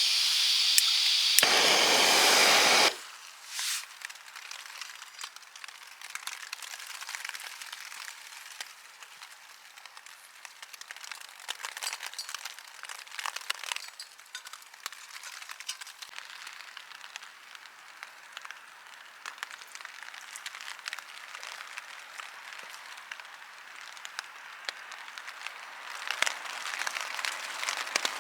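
A loud steady hiss that cuts off suddenly about three seconds in, followed by a light, irregular pattering and crackling of rain on the tent.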